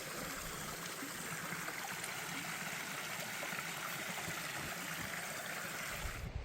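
Small creek flowing, a steady rush of running water that cuts off abruptly near the end.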